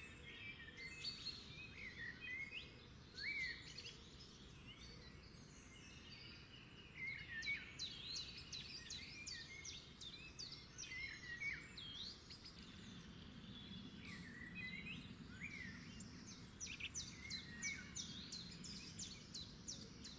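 Faint chirping of small birds: many short calls that sweep up and down in pitch, overlapping and continuing throughout.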